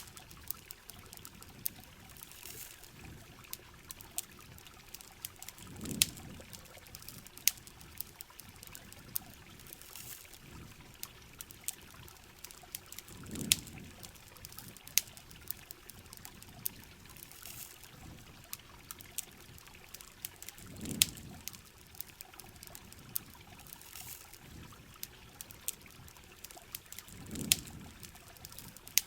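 Steady heavy rain hiss with sharp crackles and pops from a campfire, and a low swell of pouring water about every seven seconds.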